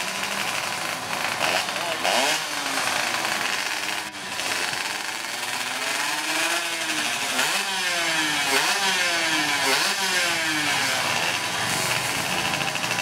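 Two-stroke 116cc drag bike engines revving hard at the start line, their pitch climbing and dropping again and again in short throttle blips, two engines overlapping.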